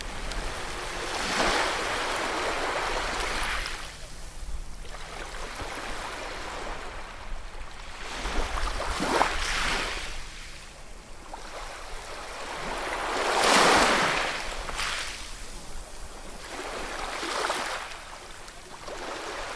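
Ocean waves breaking and washing ashore, the surf hiss swelling and falling every few seconds, with the biggest wave about two-thirds of the way through.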